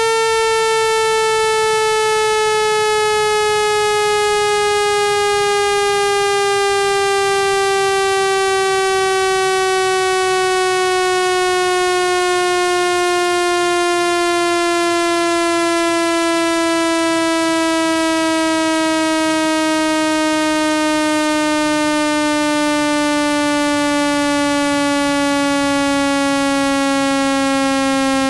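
Speaker-cleaning tone: a buzzy electronic tone, rich in overtones, sliding slowly and smoothly down in pitch at steady loudness.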